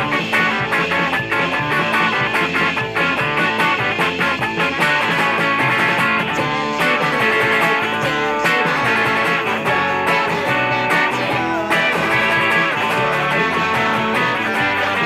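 Electric guitar playing a rock song, with steady percussive hits and a low end behind it, as from a band backing track.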